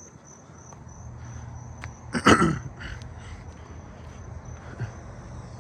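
Columbian trigs trilling: a high, steady, slightly pulsing chirr. A brief loud sound cuts in a little over two seconds in.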